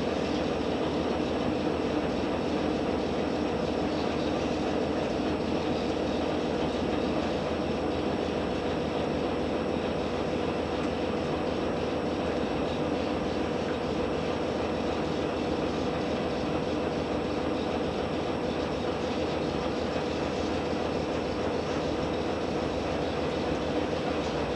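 Cabin sound of a JR Hokkaido H100 diesel-electric railcar (DECMO): a steady hum from the diesel engine and drive, with constant tones that neither rise nor fall.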